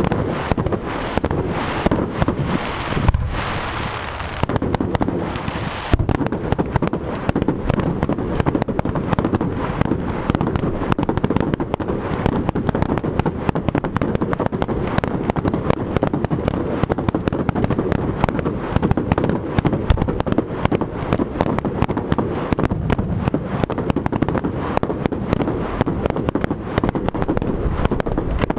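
Fireworks display: a rapid, continuous barrage of bangs and crackling, many reports a second, growing denser from about six seconds in.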